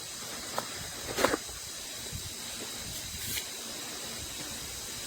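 Light handling sounds of unboxed accessories being picked up and moved: a small click, then a louder short rustle and knock about a second in, and a brief rustle a couple of seconds later, over a steady background hiss.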